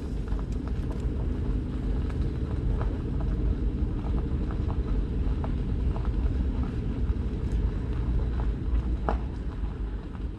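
Vehicle driving on a forest track: a steady low rumble of engine and tyres, with scattered light clicks and knocks.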